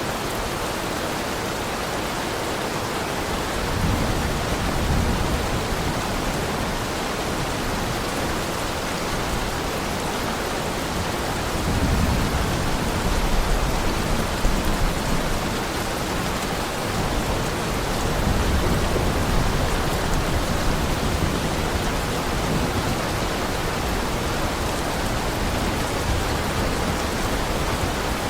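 Heavy rain falling steadily, with low rumbles of thunder swelling about four seconds in, again around twelve seconds and near eighteen seconds.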